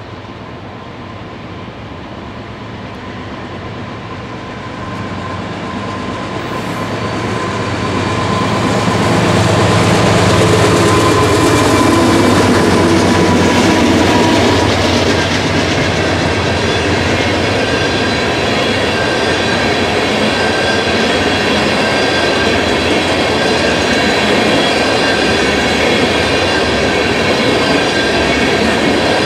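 Freight train led by a BNSF diesel locomotive approaching and passing close by: the sound builds for several seconds, peaks, and the engine drops in pitch as it goes by about halfway through. Then a long string of tank cars rolls past with steady wheel-on-rail rumble, clatter and a thin, high wheel squeal.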